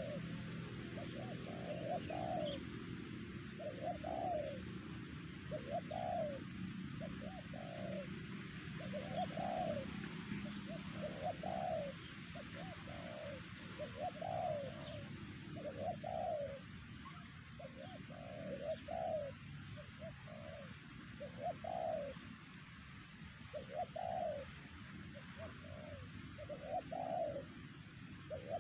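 Spotted dove cooing over and over, each phrase a short note followed by a longer one, repeated about every one and a half to two seconds.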